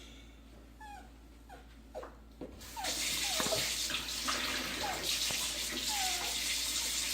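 A series of short, falling squeaky calls from an animal, repeated about every half second. About three seconds in, a steady loud hiss joins them.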